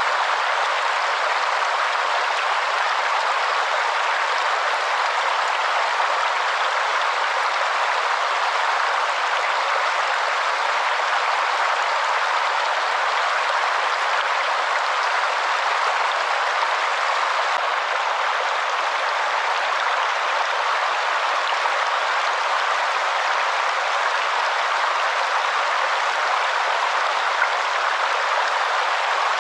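Waterfall: a steady, unbroken rush of falling water with no deep rumble in it.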